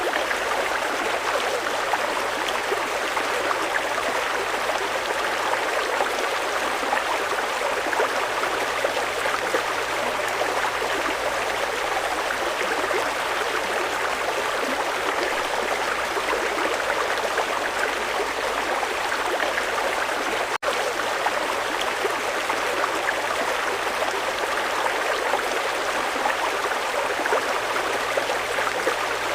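Fast-flowing mountain river water rushing steadily and evenly. There is a split-second break about two-thirds of the way through.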